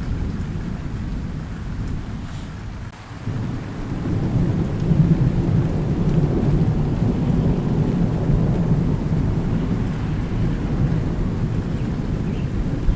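Thunder rumbling low and long over falling rain. The rumble fades briefly about three seconds in, then a new roll of thunder swells up and carries on to the end.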